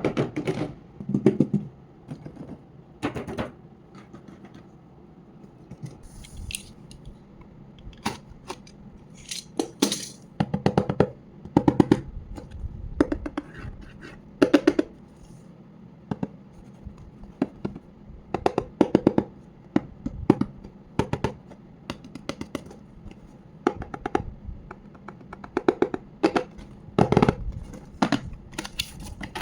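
Toy packaging being handled and opened: irregular bursts of scraping, tearing and clicking of cardboard and plastic, with short pauses between.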